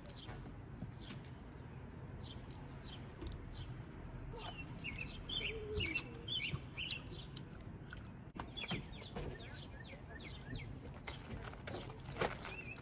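Small birds chirping, short quick calls repeated over and over, with scattered sharp clicks and cracks from crawfish shells being broken and peeled by hand.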